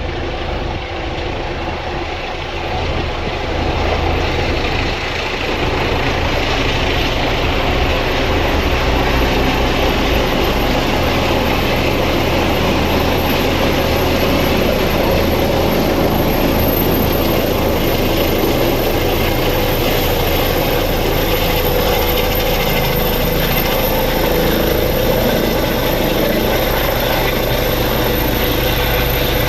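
Air-ambulance helicopter running close by, its rotor and turbine noise growing louder over the first several seconds and then holding steady, with a high steady whine over it.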